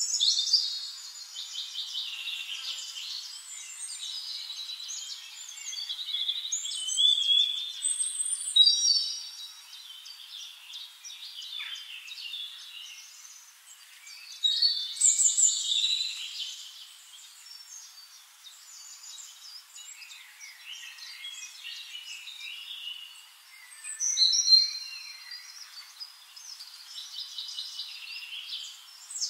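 A chorus of several birds chirping, trilling and whistling, coming and going in busy swells; no low sounds at all.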